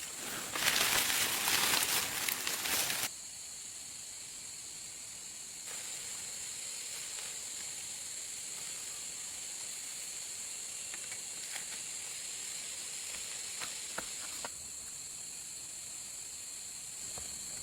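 A loud rustle for about three seconds, then a steady high-pitched buzzing of forest insects, with a few faint ticks in the middle.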